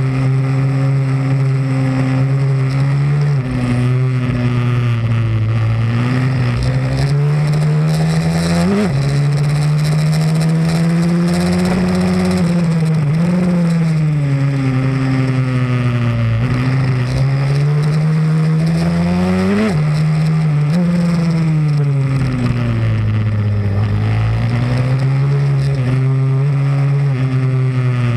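Pit bike single-cylinder engine running hard around a track, its pitch climbing and falling repeatedly as the rider accelerates and backs off for corners, with sharp drops in pitch about 9 and 20 seconds in that sound like gear changes.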